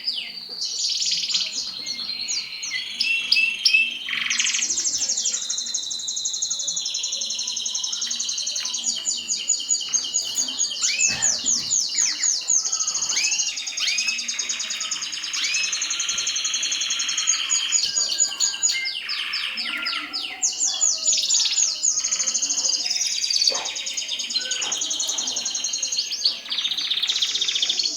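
Mosaic canary singing a long, unbroken song of fast trills, each a run of quickly repeated high notes, changing from one trill to the next every second or two.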